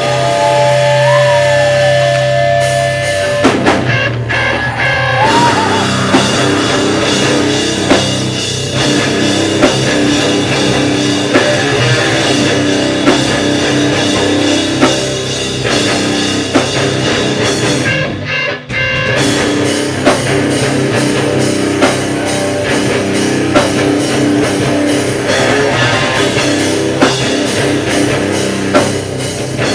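Loud live heavy band playing: distorted electric guitars over a pounding drum kit, with short breaks about four seconds in and again around eighteen seconds in.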